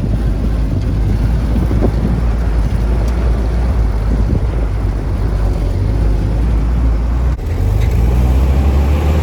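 Old Jeep's engine running as it drives along, heard from on board the open vehicle with wind and road noise, with a brief dip in level about seven seconds in.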